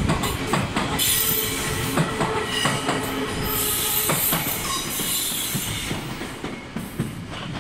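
Odakyu 8000 series electric train running past: its wheels clack over the rail joints, with stretches of high squeal from the wheels. It fades off as the last car goes by, about five seconds in.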